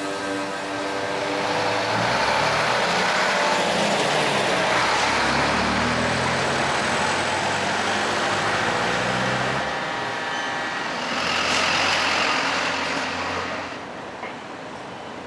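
Heavy fire engines driving past without sirens, their engines and tyres rising and fading. One passes during the first two-thirds and a second, shorter pass comes near the end.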